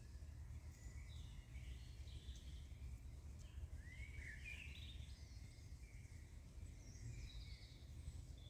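Faint songbird chirps and short warbled phrases, a louder one about four seconds in, over a steady low rumble.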